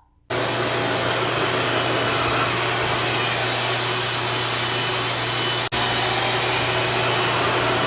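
RevAir reverse-air hair dryer running: a steady suction whoosh of air with a constant low hum. It drops out for a split second about six seconds in.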